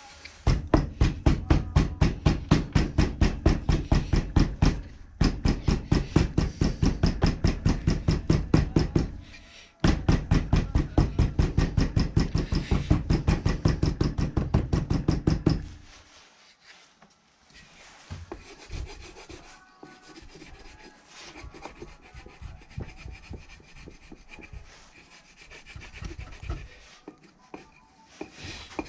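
Rapid, regular back-and-forth rubbing strokes, about five a second, in three runs of several seconds broken by short pauses, then fainter, irregular scraping and handling sounds.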